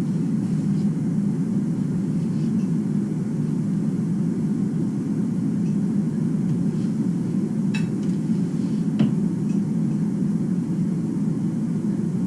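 A steady low drone of background noise, with a few faint, short, high sounds, the clearest nearly eight seconds in.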